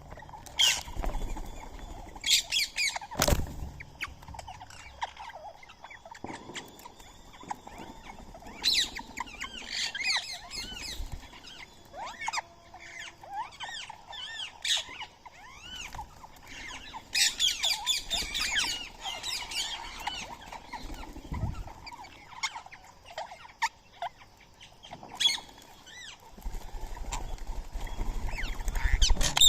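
Birds chirping and squawking in busy bursts of short rising-and-falling calls, several overlapping at once, with a sharp knock about three seconds in and a low rumble near the end.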